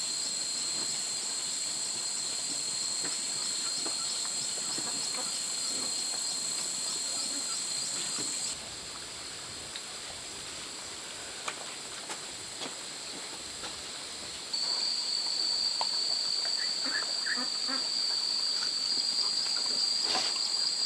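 Steady high-pitched chorus of insects, with two held tones layered together. The chorus changes abruptly about 8 seconds in and again about 14 seconds in, and a few faint short chirps sound near the end.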